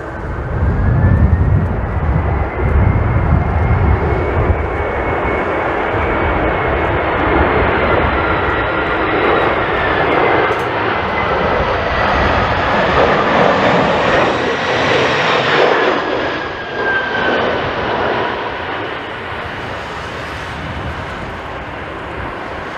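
Jet airliner's engines whining and rushing as it flies past on its landing approach, their tone sliding down in pitch about two-thirds of the way through before the sound eases off.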